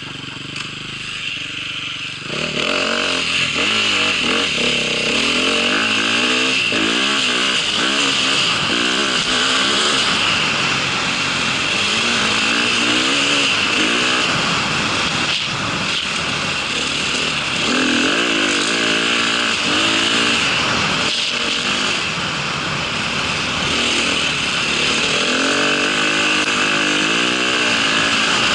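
A small vehicle's engine picks up sharply about two seconds in, then revs up and down again and again as the vehicle is ridden, over a steady hiss.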